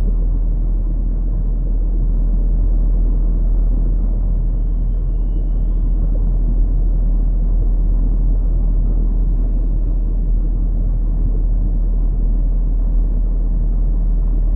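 Steady low rumbling noise with no pitch and no breaks, heaviest in the deep bass, with a faint, brief high whistle about five seconds in.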